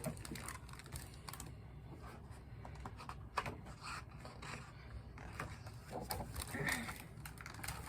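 Faint handling noise of a picture book being picked up and opened: scattered soft clicks and brief paper scrapes over a low room hum.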